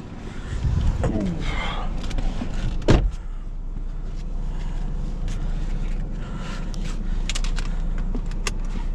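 A car door shuts with a single thump about three seconds in, then the car's engine runs steadily at idle.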